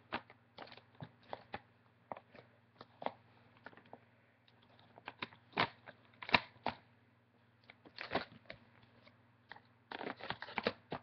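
Close handling noise: irregular clicks, taps and short bursts of crackling, with a faint steady low hum underneath.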